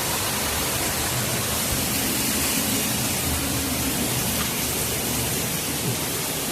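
Steady, even rush of water falling and splashing over rock.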